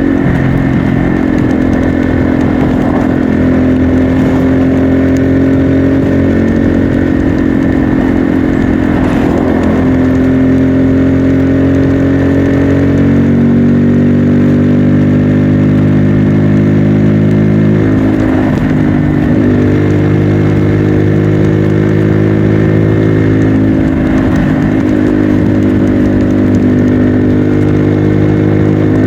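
Bajaj Pulsar N250's single-cylinder engine and exhaust running under way, a steady note that drifts slowly up in pitch, dipping briefly about four times.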